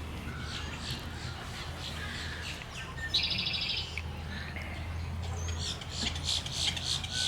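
Birds calling at a wood stork nesting colony: scattered chirps and squawks, with one short, buzzy, rattling call a little past three seconds in.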